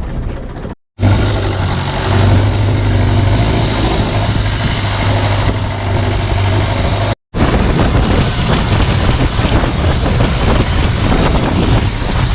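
Longtail boat engine running steadily under way, a loud low drone with wash and wind noise over it. The sound drops out completely for a moment twice.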